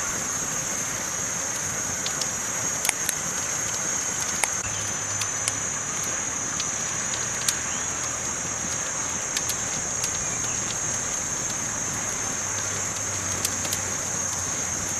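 Campfire burning with irregular crackles and sharp pops over a steady hiss, and a constant high-pitched tone running underneath.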